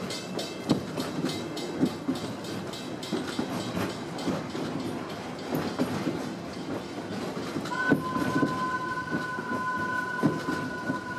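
A narrow-gauge train running along its track, heard from an open passenger car: a steady rumble with irregular clacks of the wheels over the rails. Nearly eight seconds in, the locomotive's whistle starts, a steady two-tone blast still sounding at the end.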